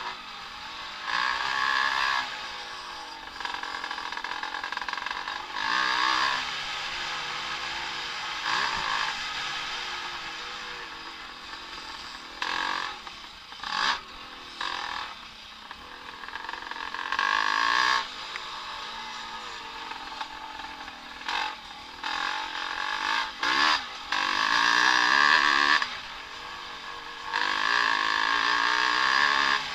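Vintage motocross bikes racing past one after another, engines revving up and down through the gears, with a string of louder passes each lasting a second or two and the loudest near the end.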